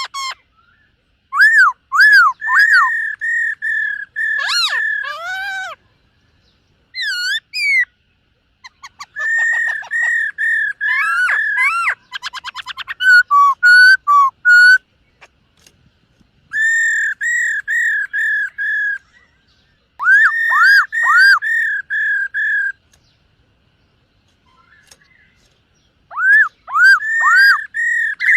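Black-throated laughingthrush singing: loud whistled phrases of quick, repeated, arching notes in bouts of a few seconds, split by short pauses, with one fast trill midway.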